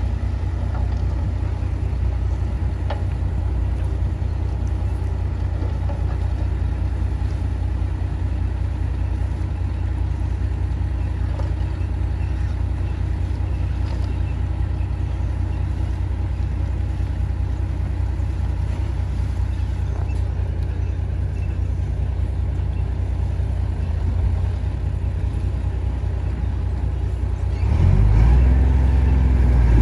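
Heavy diesel earthmoving machinery running with a steady low rumble, growing louder near the end as the engine note rises under load.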